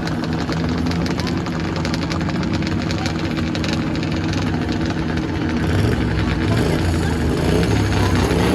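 Sports compact stock car engine running steadily, growing louder about six seconds in.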